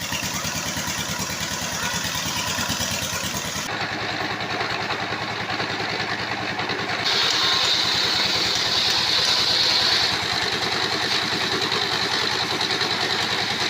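Sawmill engine running with a steady, rapid pulsing; a high whine joins about halfway through.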